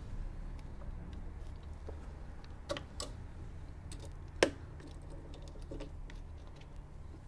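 Scattered light clicks and knocks of metal parts being handled, with one sharp click about four and a half seconds in, as a drill bit is fitted and tightened in the drill press chuck.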